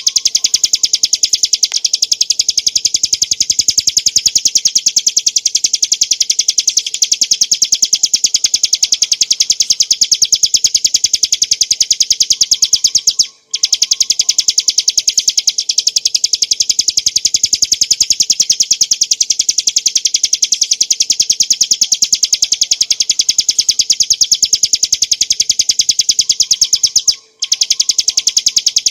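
Ciblek gunung, a small mountain prinia, singing a long, very fast, high-pitched trill of rapidly repeated notes, broken by short pauses about halfway through and near the end.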